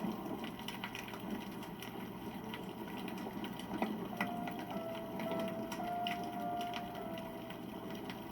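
Wood fire burning, with irregular sharp crackles and pops over a steady rustle. A thin whistle runs for about three seconds in the middle.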